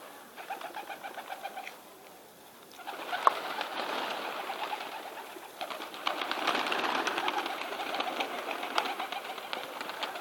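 Several kept birds calling: a quick run of short repeated notes in the first two seconds, then dense overlapping chirping and calling from about three seconds in.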